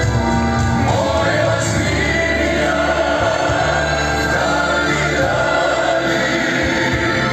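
Music: a male vocal group singing long, held chords in choral style.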